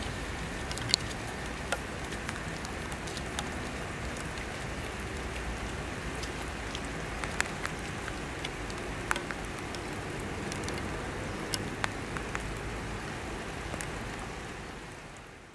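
Steady rain falling on wet tarmac, with scattered sharp ticks of drops landing close by. The sound fades out near the end.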